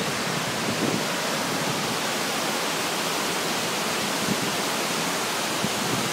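Waterfall's steady rush of falling water, heard up close.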